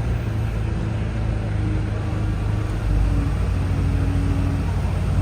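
A large engine running steadily with a low rumble, with a faint whine that steps up and down in pitch.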